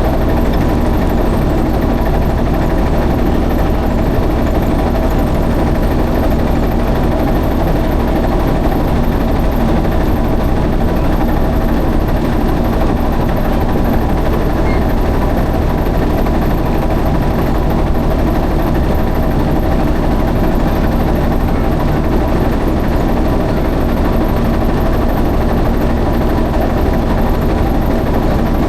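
Boat engine running steadily, a constant drone with a few steady tones that does not change.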